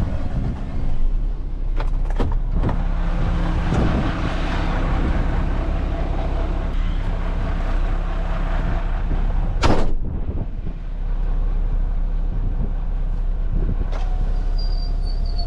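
Heavy diesel engine running steadily, with a few sharp clicks or knocks over it, the loudest just before the tenth second.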